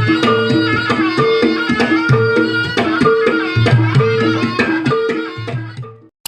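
Javanese traditional trance-dance music: hand-drum strokes over repeated metallophone notes and a sustained high melody line. It dies away about six seconds in.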